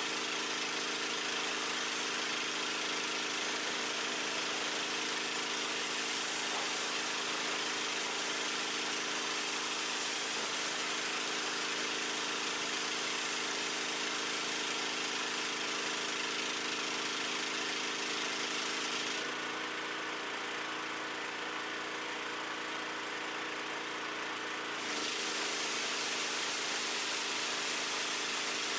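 Gas-engine pressure washer running steadily while spraying water in a loud hiss; for about six seconds, roughly two-thirds of the way through, the spray stops and the engine note changes, as when the trigger is let go, then the spray resumes.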